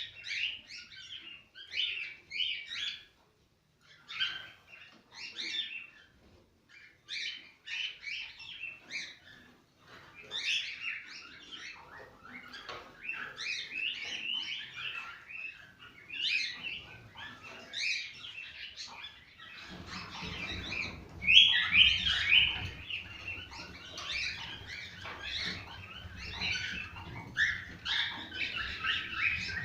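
Cockatiels singing: a run of short chirps and warbled whistles that gets denser and louder after the first third. About two-thirds in, a low steady rumble joins underneath.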